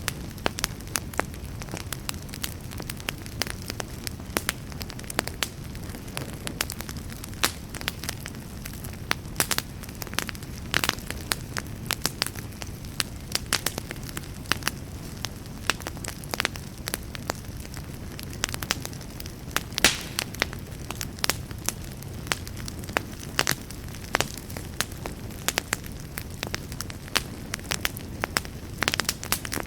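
Wood fire burning in a fireplace, with frequent sharp crackles and pops over a steady low rumble of the flames.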